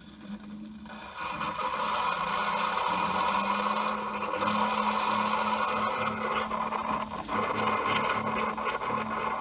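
Keurig K-Elite pod coffee maker running its brew cycle, its pump humming steadily as coffee is dispensed into the mug. The noise starts about a second in and cuts off abruptly at the end as the brew finishes.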